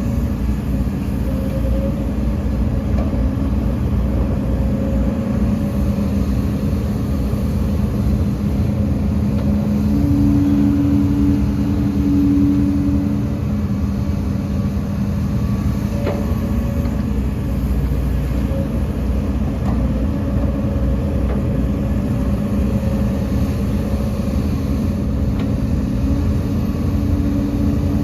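Heavy diesel earthmoving machinery running steadily, with a low engine drone; an extra steady tone comes in for about three seconds near the middle.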